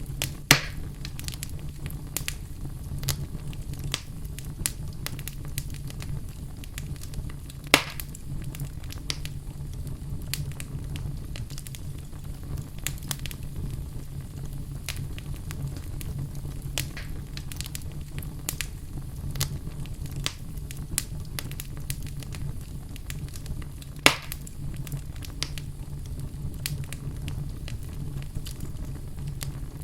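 Wood burning in a fireplace, crackling steadily with many small clicks over a low rumble. Three louder pops stand out: one just after the start, one about a quarter of the way through and one about four-fifths of the way through.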